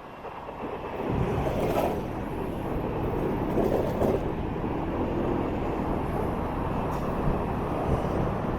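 Motorbike riding through city traffic: engine and road noise, louder from about a second in.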